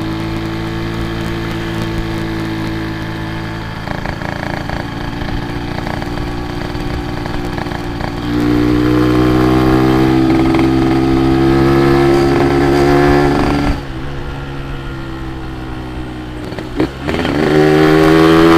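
Yamaha RX-King's two-stroke single-cylinder engine running under way. It gets louder about eight seconds in and drops off abruptly near fourteen seconds, as when the throttle is closed. The revs climb again near the end.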